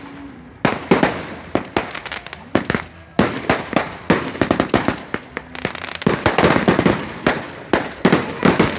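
Fireworks going off in a long series of sharp bangs and crackles, scattered at first and then a rapid, dense barrage about six seconds in.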